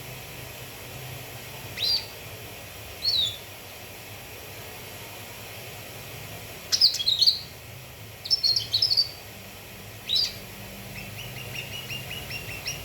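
Cucak kinoi calling: loud, short, high chirps every second or two, some bunched into quick clusters, then a fast run of short repeated notes near the end.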